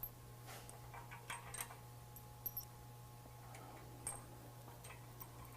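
Faint, scattered metallic clicks and clinks of nuts, bolts and washers being handled and fitted by hand while the bumper's winch tray is bolted to the frame brackets, over a steady low hum.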